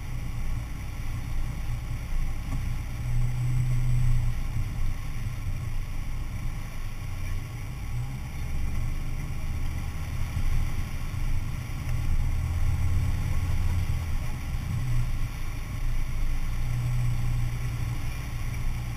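Four-wheel-drive SUV engine running at low revs: a steady low drone that shifts up and down in pitch as the throttle changes.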